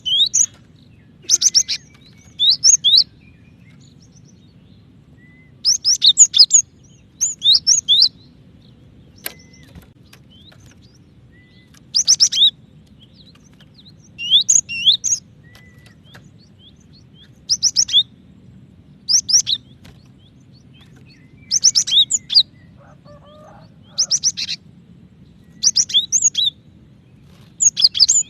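Female cinereous tit (gelatik batu) calling to a male: short bursts of quick, high, sweeping notes, repeated every second or two.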